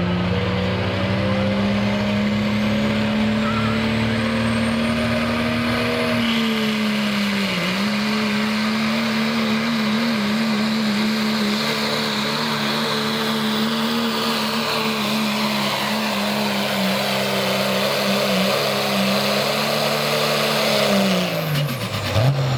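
Pro stock diesel pickup's engine running hard under load on a pulling run, a steady high note with a brief dip in pitch about a third of the way through. Near the end the engine note drops away as the driver lets off at the end of the run.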